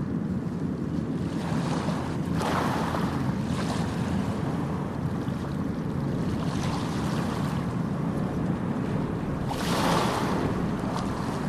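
Ocean surf: a steady low rumble of the sea with waves washing in, the two loudest surges about two seconds in and near the end.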